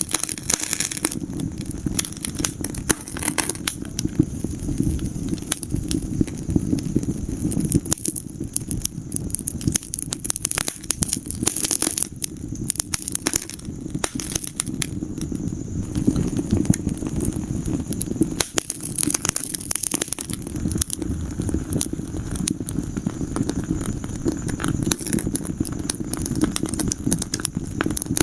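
Wood fire burning in a fireplace, with dense irregular crackles and pops over a steady low rumble of flame.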